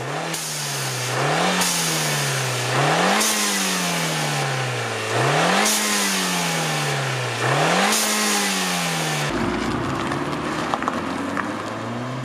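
Alfa Romeo Giulietta's 1.4 turbo four-cylinder petrol engine being revved with the car standing: about five quick blips, each rising sharply and falling away slowly. Near the end the revving stops and it changes to a lower, steadier engine sound.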